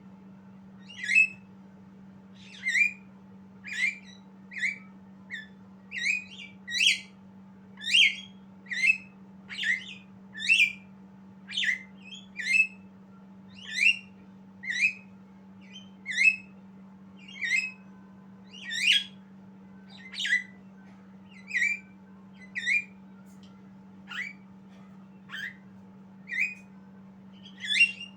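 A songbird giving short, sharp rising whistled calls over and over, about one a second, in a steady series.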